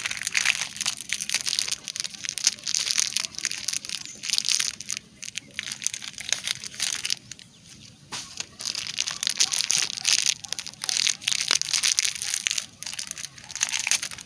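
Crunching and crinkling in irregular bursts, with short pauses between them, about as loud as the speech around it.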